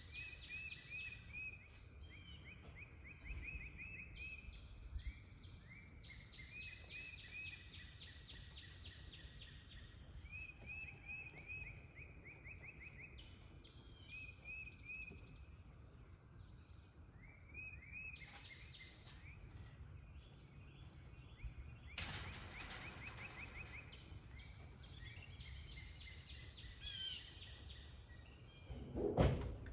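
Birds singing in quick repeated trills of short rising chirps, over a low background rumble, with a brief louder noise near the end.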